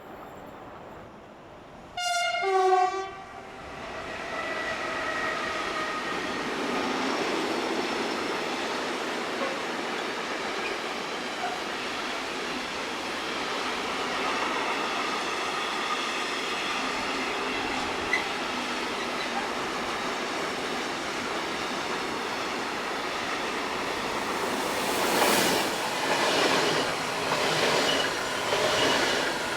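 A loud, short horn blast of several tones about two seconds in, then a long steady rumble that builds up and holds. Regular pulses come about once a second near the end.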